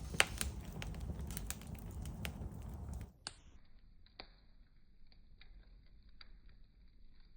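Small wood campfire crackling and popping, dense crackles over a low rumble for about three seconds. Then it turns abruptly quieter and thinner, with only scattered pops.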